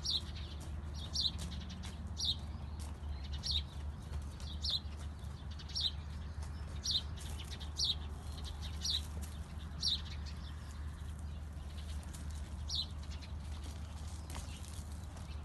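A small bird calling: one short, high chirp falling in pitch, repeated about once a second, over a steady low hum.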